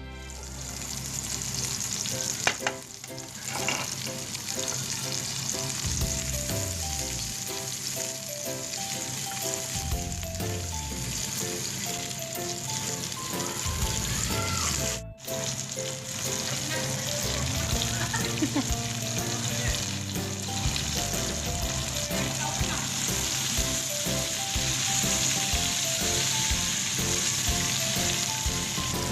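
Food frying in a hot pan, sizzling steadily while being stirred, with a sharp knock a few seconds in and a brief break about halfway. Soft background music plays underneath.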